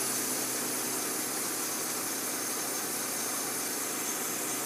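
2011 Mercedes-Benz C300's 3.0-litre V6 idling steadily, fitted with a custom twin cone-filter intake.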